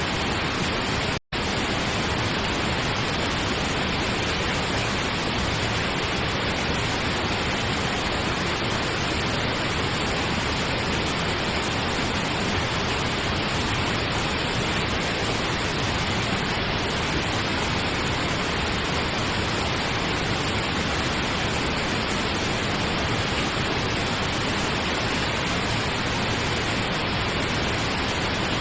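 Steady pink noise, an even hiss spread across the whole range. It cuts out completely for a split second about a second in.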